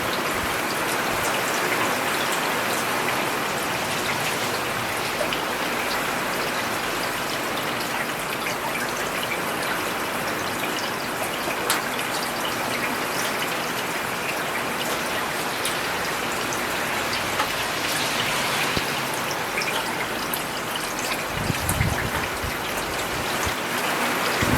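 Steady rain falling on a road surface: an even hiss with many small drop taps scattered through it. A brief low rumble swells about three seconds before the end.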